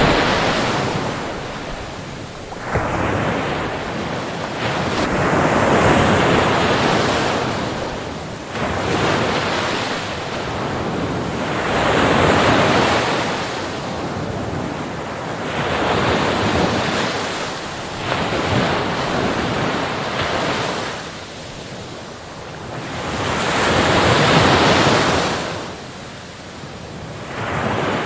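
Sea surf: waves breaking and washing up a beach one after another, each surge swelling and fading about every five to six seconds.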